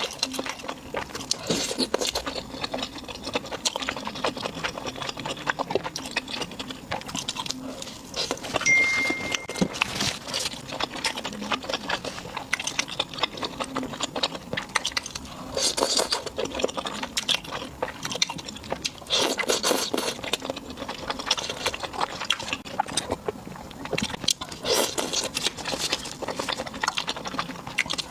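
A person eating close to the microphone: chewing and smacking, with many quick small clicks throughout.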